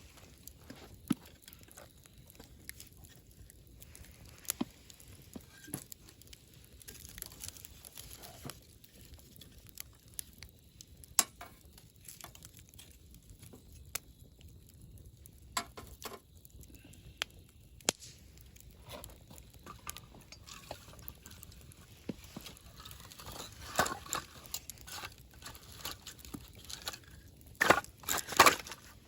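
Wood campfire crackling, with irregular sharp pops and snaps over a faint low hiss. The crackles come thicker in two flurries, about two-thirds of the way through and again near the end.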